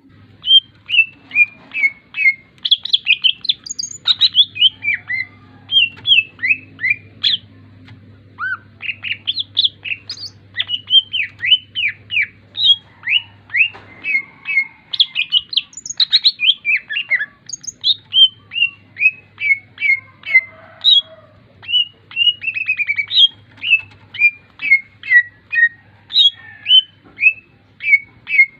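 A songbird singing a long, continuous run of loud, clear whistled notes, mostly quick downward slurs, several a second, with a faint low hum underneath at times.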